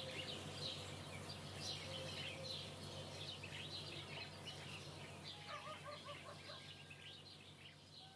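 Chorus of many small birds chirping over a steady low hum, gradually fading out.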